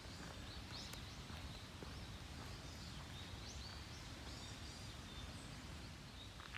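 Small birds chirping, many short rising calls scattered through, over a steady low background rumble of outdoor noise.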